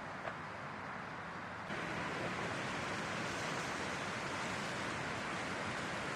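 Strong wind blowing in a steady rush, which becomes abruptly louder a little under two seconds in.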